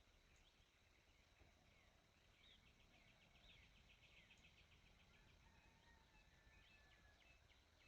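Near silence with faint birdsong: scattered chirps and whistles, with a fast trill of rapid repeated notes near the middle, over a low steady hum.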